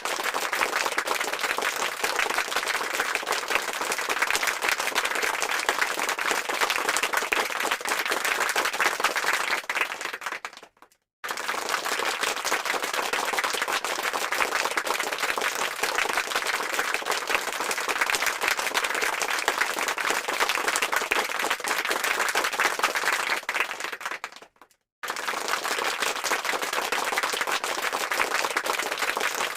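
Applause sound effect: many hands clapping in a dense, steady crackle. It fades out and starts again twice, about a third and about four-fifths of the way through.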